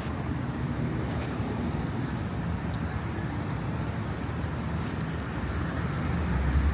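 Low, steady rumble of car engines and street traffic, growing louder near the end.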